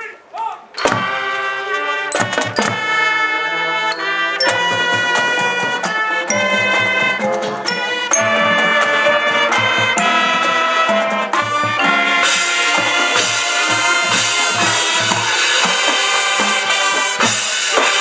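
Marching band playing, brass and drums together, starting with a sudden loud entry about a second in, with a steady drum beat underneath.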